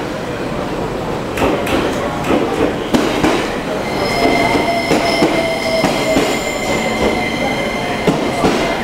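Electric multiple-unit train pulling into the platform: wheels clacking over rail joints, then from about four seconds in a steady high squeal from the wheels and brakes as it slows.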